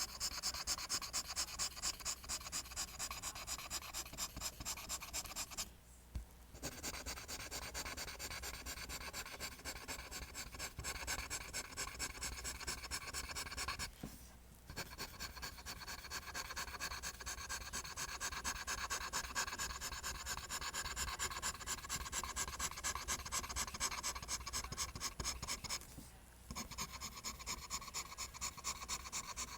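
Pencil drawing lines on paper in rapid, repeated scratchy strokes, breaking off briefly three times.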